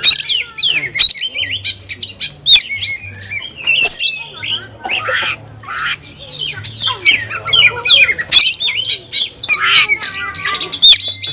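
Oriental magpie-robin (kacer) singing continuously: a loud, varied song of quick whistled glides, chirps and harsh squawky notes with hardly a pause.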